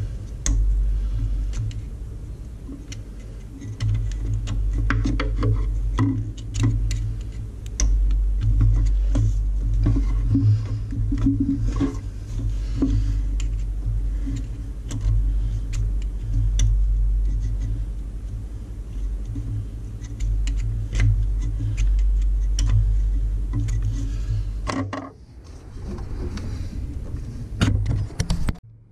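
Irregular clicks and clinks of hand tools working a coolant hose clamp, over a steady low rumble that stops near the end.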